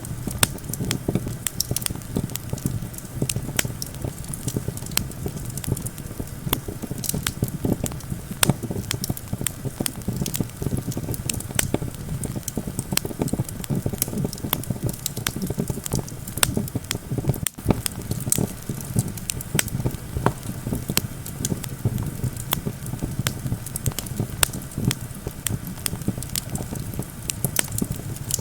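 Wood fire crackling, with many sharp snaps and pops, over a steady low rumble of wind.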